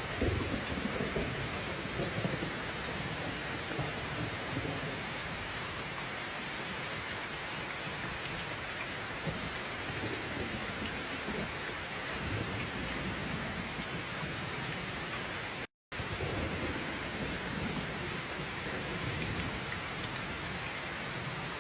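Steady rain falling, with low rolling rumbles of thunder, strongest just after the start and again in the last few seconds. The sound cuts out completely for a split second about two-thirds of the way through.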